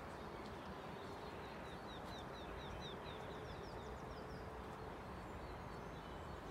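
Outdoor field ambience with a steady background hiss, over which a small songbird sings a rapid run of short, falling chirps through the middle.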